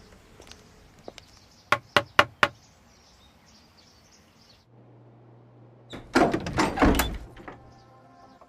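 Four quick, sharp knocks on a door about two seconds in, then a loud burst of door banging and rattling around six to seven seconds in.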